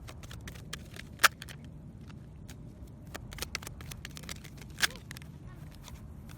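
Tarot cards being handled: scattered light clicks and taps, with two sharper snaps about a second in and near five seconds, over a low steady rumble.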